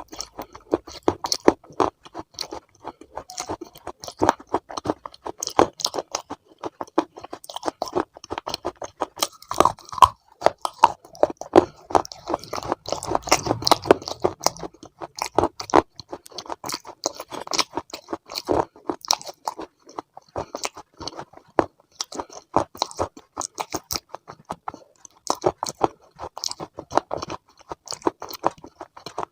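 Close-up crunchy chewing: a dense, continuous run of crisp crunches as food is bitten and chewed.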